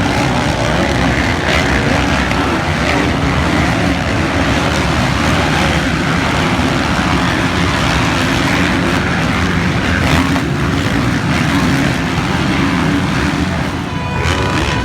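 Motocross motorcycle engines running hard and revving. The sound is loud and continuous, with its pitch rising and falling. It dips briefly near the end, when a few steady high tones come in.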